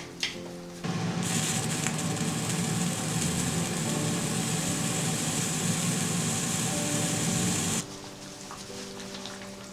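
Electric blender running steadily for about seven seconds, then switching off abruptly, as a vegetable soup is puréed until creamy.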